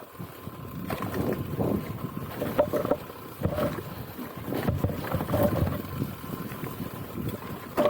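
Enduro motorcycle engine running with the throttle opened and closed unevenly, surging and dropping every second or so, with wind buffeting the microphone.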